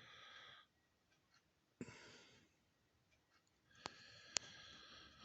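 Near silence: a few faint breaths and two light clicks near the end.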